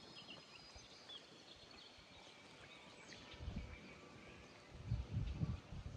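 Faint outdoor lake ambience with a few short high bird chirps early on. Low gusts of wind buffet the microphone twice, about three and a half seconds in and again near the end.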